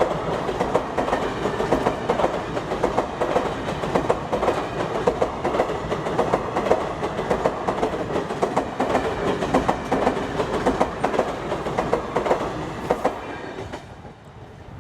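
Coaches of a passing passenger train clattering over the rails at a level crossing: a rapid, continuous clickety-clack of wheels on rail joints over a steady rumble. The clatter fades near the end as the last coach goes by.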